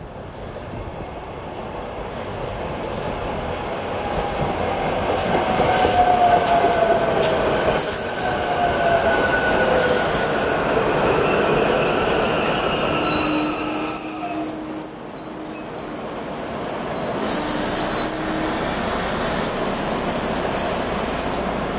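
SEPTA Silverliner electric commuter train pulling into the station, growing louder as it approaches, with a falling whine as it slows. About two-thirds of the way in, high-pitched squealing comes and goes for several seconds as it brakes to a stop, and then the train stands with a steady running hum.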